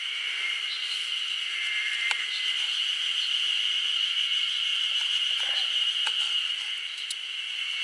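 Steady high-pitched insect chorus that hardly changes, with a few faint clicks or pops scattered through it.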